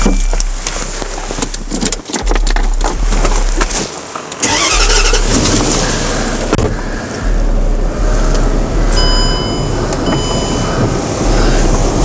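A car engine running, with a clatter of clicks and knocks in the first few seconds and a short series of high electronic beeps around nine seconds in.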